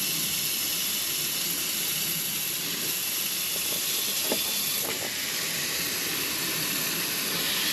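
Steady hiss of garden-hose water spraying onto an overheated AC compressor shell. The water is cooling the compressor so that its internal thermal overload will reset.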